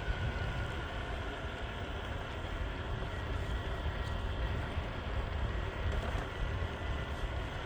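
Meepo Hurricane electric skateboard riding on honeycomb wheels: a steady low rumble from the wheels rolling, with a faint high motor whine.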